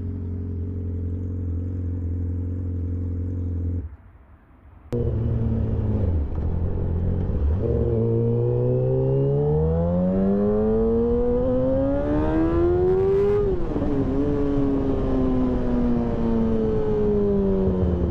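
2008 Yamaha R6 inline-four engine through stainless pipes and an SC Project muffler with no catalytic converter. It holds a steady note, cuts out sharply for about a second, then climbs steadily in pitch under acceleration. A quick drop and catch near two-thirds of the way through sounds like a gear change, after which the pitch slowly falls away.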